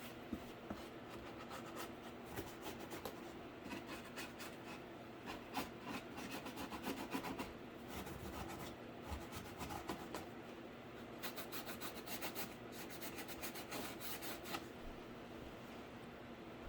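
Hand work on a cardboard case: scratchy rubbing with irregular light clicks and taps, busiest in the middle and again after about eleven seconds.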